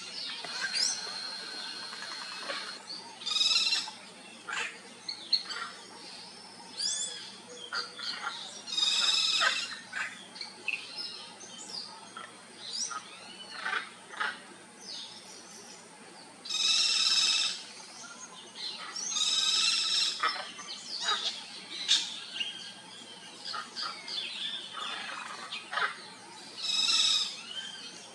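Hyacinth macaws giving several loud, harsh calls, each about a second long, spread through the stretch, amid many other birds chirping and whistling.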